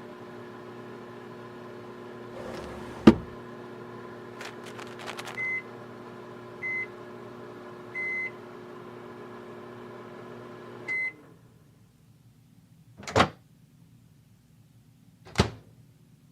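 Microwave oven running with a steady hum while heating a water bottle, with a loud knock about three seconds in, a few clicks and three short beeps. The hum cuts off with a beep about eleven seconds in, followed by two sharp knocks.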